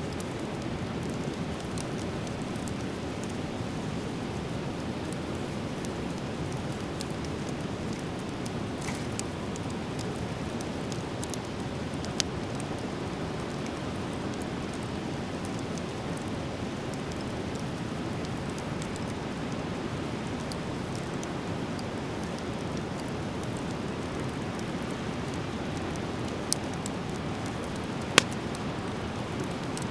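Driftwood fire burning with a steady rushing hiss, broken by a few sharp pops of the wood, the loudest near the end.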